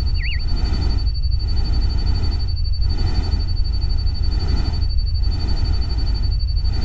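A looped rain-and-stream soundscape: a steady hiss of water with a heavy low rumble that dips briefly about every second and a half, under a steady high whine. One short warbling bird-like chirp sounds just after the start.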